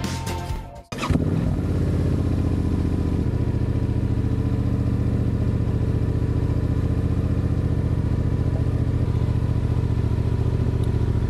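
Music ends about a second in, then an adventure motorcycle's engine runs steadily at low speed with an even firing pulse.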